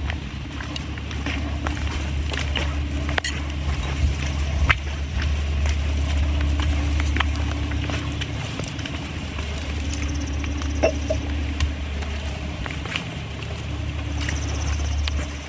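A steady low rumble, with faint footsteps and small clicks scattered through it.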